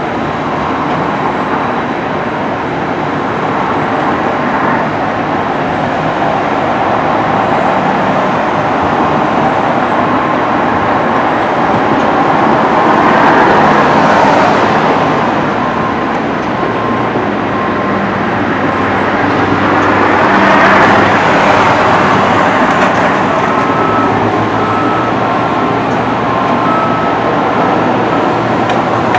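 Train running with a steady rolling rumble that swells twice. Faint short beeps repeat in the second half.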